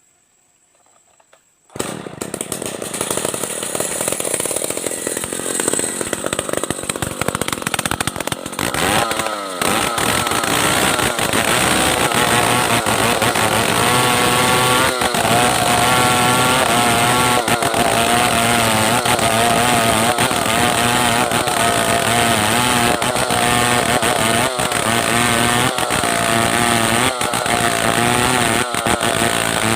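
Stihl 070 two-stroke chainsaw sawing timber. It comes in loud and sudden about two seconds in and then runs steadily, its pitch wavering from about ten seconds on.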